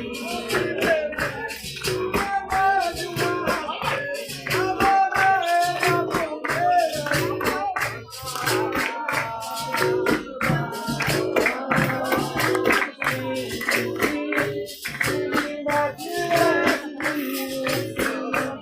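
Capoeira roda music: voices singing over a steady, driving percussion rhythm with a jingling tambourine.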